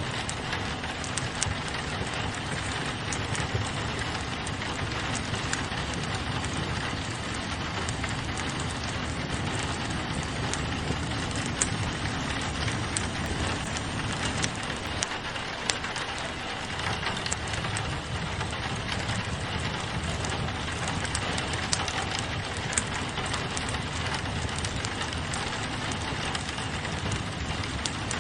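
Steady rain against a window, mixed with a wood fire crackling, its sharp pops scattered through the even hiss of the rain.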